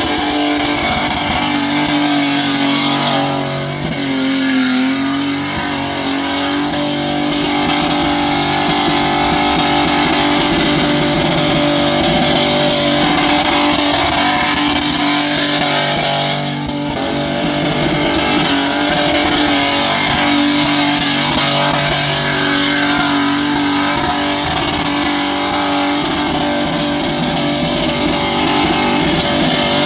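Muscle car engine held at high revs during a burnout, a steady loud howl with the noise of spinning tyres, dipping briefly about four seconds in and again near the middle before coming back up.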